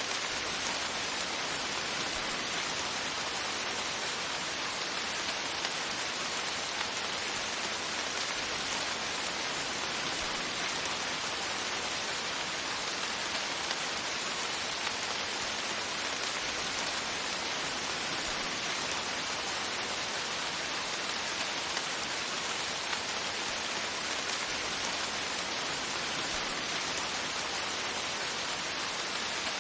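Steady rain falling on a surface, an even hiss of many raindrops with no change in strength.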